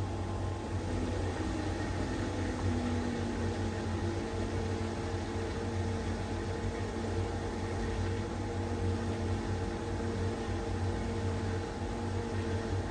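LG heat pump tumble dryer running steadily in its cool-down and condenser-cleaning stage: a constant machine hum with a few held tones over a faint hiss.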